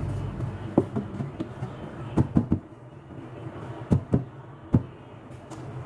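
A handful of short hard knocks and clunks, about six of them in pairs and singles, over a low steady hum: objects being handled and set down during assembly.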